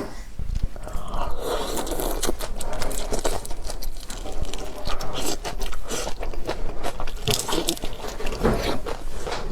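Close-miked eating of shrimp and octopus: biting and chewing with many quick wet crunches and clicks.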